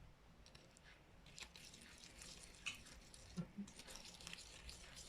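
Faint soft scraping and squishing of a spoon stirring a thick, creamy homemade deodorant paste in a small container, with scattered light clicks.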